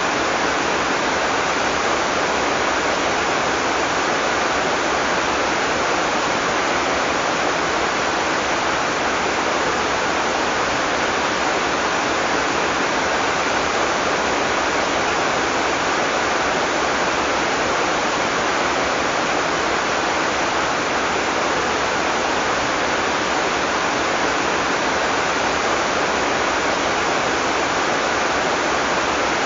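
Heavy tropical rain falling steadily, a dense even hiss with no thunder and no single drops standing out.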